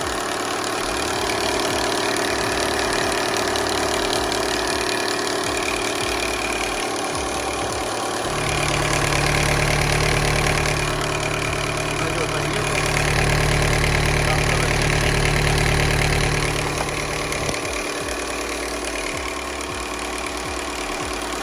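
Volkswagen Golf 5's 1.4 TSI turbocharged petrol engine idling steadily just after starting, run without coolant. For several seconds in the middle it grows louder with a stronger low hum, then settles back.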